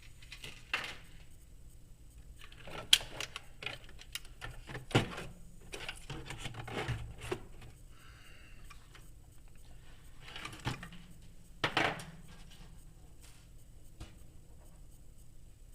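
Hands handling the plow and small parts of a Kyosho Blizzard RC snowcat as the plow is taken off: irregular clicks, taps and light clatters of small hard parts, with a few sharper knocks about three, five and twelve seconds in.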